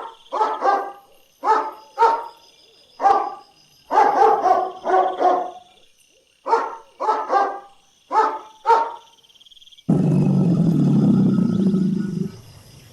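Dog barking repeatedly, often two barks in quick succession, for about nine seconds. About ten seconds in, the barking stops and a loud, low animal call takes over for about two seconds.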